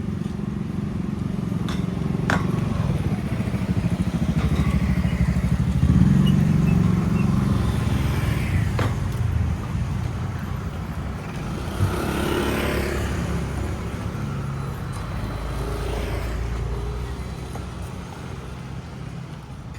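A motorcycle passing close, its engine getting louder to a peak about six seconds in and then fading away. A second vehicle goes by about twelve seconds in.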